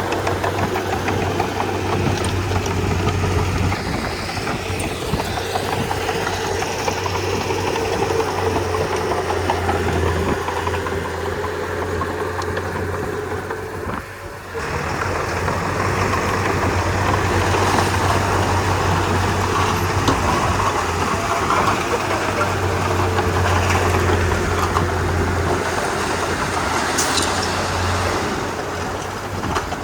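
Crawler bulldozer's diesel engine running steadily under work, with clattering from the machine. The sound briefly drops about halfway through, then resumes.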